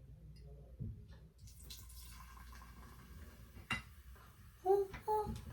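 Vinegar poured onto baking soda in a cup, setting off a steady fizzing hiss from about a second and a half in. A sharp knock comes near the middle and two short squeaks near the end.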